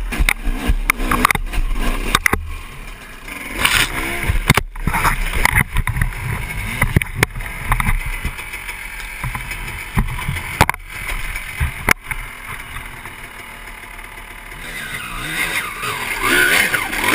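Dirt bike engines revving up and down in bursts over rough ground, with sharp knocks and clatter scattered throughout.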